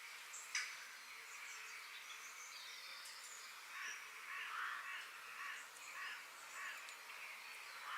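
Outdoor nature ambience: a steady high hiss, small birds chirping, and a sharp tick about half a second in. From the middle on comes a run of six or seven harsh bird calls, about one and a half a second.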